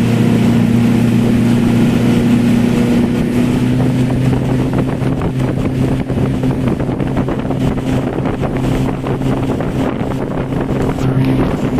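Motorboat engine running at a steady pitch, towing the banana boat, with wind buffeting the microphone. The engine hum stops shortly before the end.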